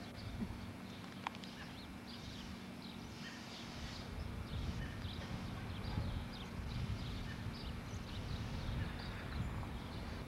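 Small birds chirping over and over in short high notes, over a low rumbling noise.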